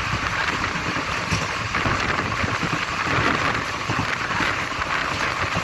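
Steady rushing noise of a moving passenger train.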